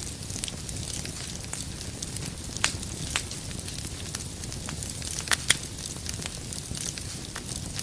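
Wood fire burning with a steady low rumble and hiss, and irregular sharp crackles and pops from the burning logs, the loudest a quick pair of pops about five and a half seconds in.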